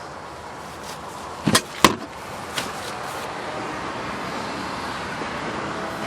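Two sharp clicks about a third of a second apart, then a lighter one, from the Kia Carens' rear seat hardware being worked, over a steady background hiss.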